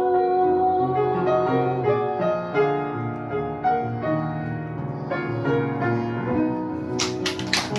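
Music: a piano playing a slow melody of held notes. Near the end a quick run of sharp taps starts over it.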